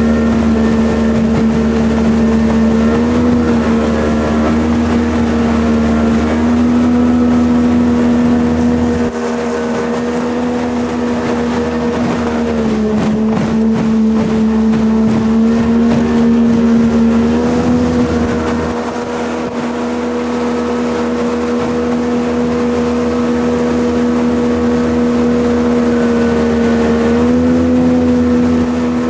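Jet boat engine running steadily under way, with the hiss of water and wind beneath it. Its pitch steps up slightly a few seconds in, dips about twelve seconds in, climbs back a few seconds later, and rises again near the end.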